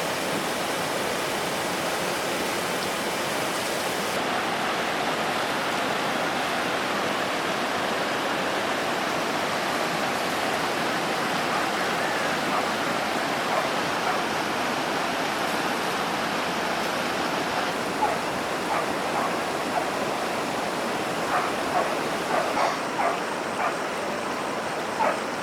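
A steady rushing noise, with a dog yelping in short calls several times over the last few seconds.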